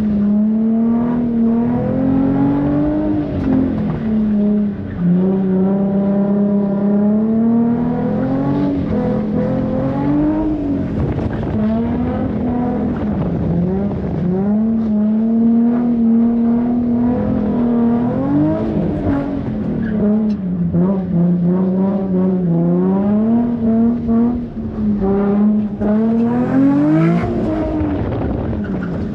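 Car engine held at high revs, its pitch dipping and climbing again every few seconds as the throttle is worked, the way a car sounds while drifting.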